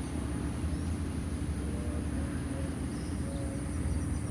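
Outdoor ambience: insects, likely crickets, chirring steadily at a high pitch over a steady low rumble, with a few faint short bird chirps.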